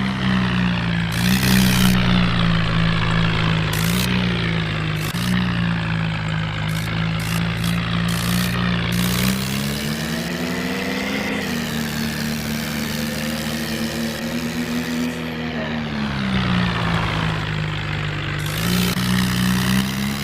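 Tractor engine sound running steadily, its pitch swelling and sinking slowly as if revving up and down, with a few sharp clicks over it.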